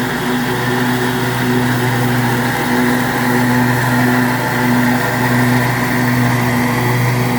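Scag Liberty Z zero-turn mower's Kawasaki V-twin engine running steadily under mowing load, with the blades turning in the mulching deck, and a slight regular rise and fall about once a second.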